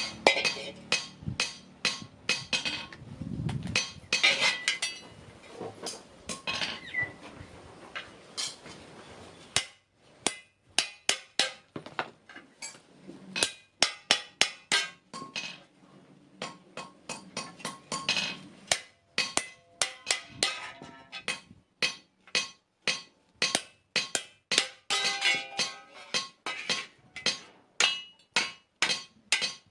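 Blacksmith's hammer striking steel on an anvil while forging a spade blade: a long series of sharp metal-on-metal blows, about two a second, with short pauses between runs.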